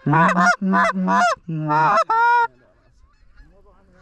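Canada goose honks: about five loud ones in quick succession over the first two and a half seconds, then fainter honking.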